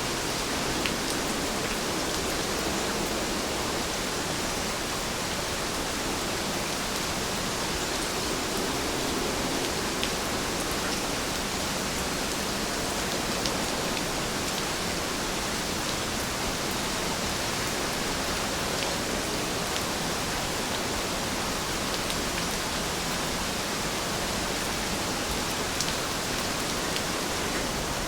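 Steady rain falling, an even dense hiss with occasional faint drop ticks.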